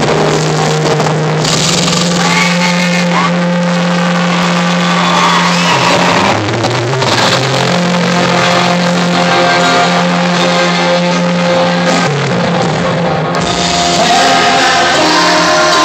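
Rock music played loud: held low notes that shift every few seconds, with a singing voice over them.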